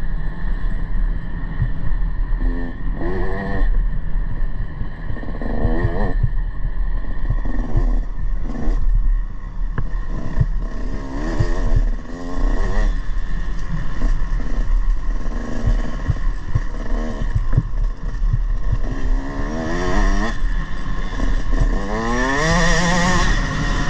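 Motocross bike engine revving up and down over and over as it rides the track, its pitch climbing several times as the throttle opens, over a constant low rumble.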